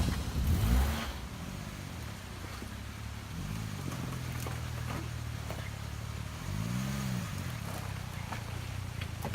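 Suzuki Jimny engine running as the vehicle drives, its pitch rising and falling twice as it revs up and eases off.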